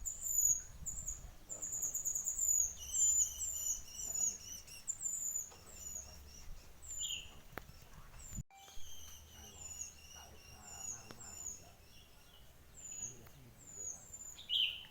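A mantenan songbird chirping: a string of short, high notes that slide downward, repeated quickly, with a few lower whistled notes in between.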